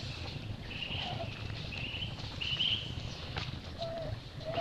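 Forest birds calling: a few short high calls in the first three seconds and short lower notes near the start and end, over a low steady rumble.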